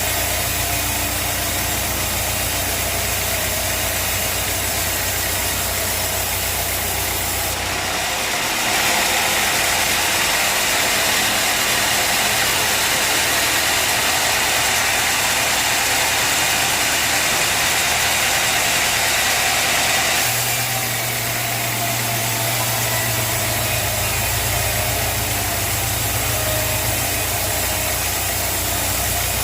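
Sawmill engine running steadily. From about eight seconds in until about twenty, a louder, even hiss joins as the saw blade cuts through the log, and the engine's low hum changes under the load.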